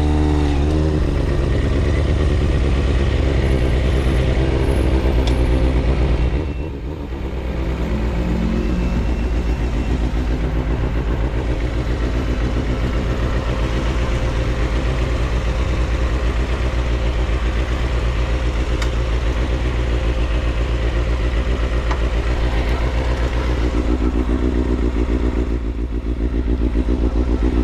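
Kawasaki ZXR250's inline-four engine running steadily. The revs dip briefly about six seconds in and pick up again near the end.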